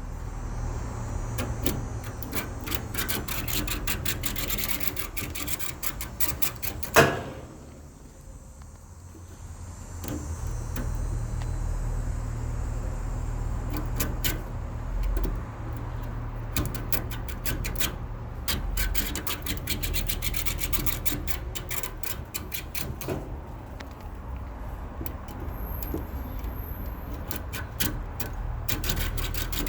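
Plastic comb being drawn through an air conditioner's bent aluminium fins, making dense runs of rapid clicking and rasping ticks as the teeth catch on each fin. One loud knock about seven seconds in, then a short pause before the combing starts again.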